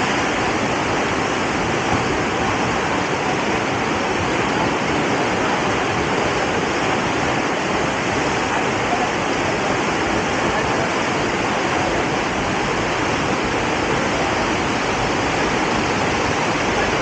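Steady, loud rush of fast-flowing water, even and unbroken.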